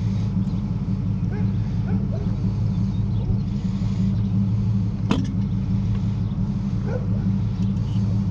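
Vehicle engine idling with a steady low hum, and a single sharp knock about five seconds in.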